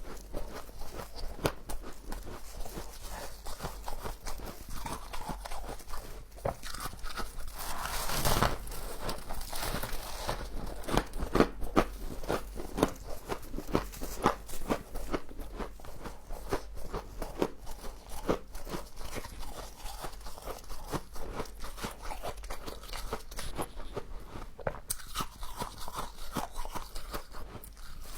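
Frost being bitten and chewed close to the microphone: a dense, irregular run of crisp crunches and crackles, with a louder crunch about eight seconds in.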